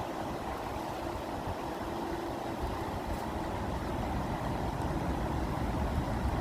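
Steady rushing water, an even noise heavy in the low end with no breaks.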